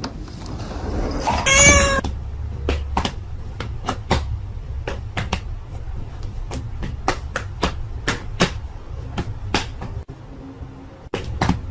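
A domestic cat meows once, loudly, about one and a half seconds in. Then come a series of short, sharp clicks or taps at irregular intervals, over a steady low rumble.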